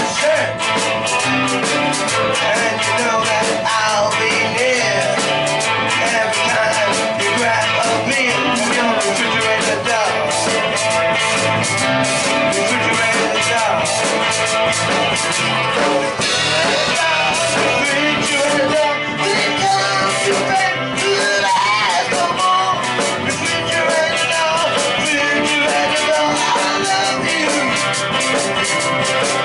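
Live rock band playing, electric guitar over a steady drum beat.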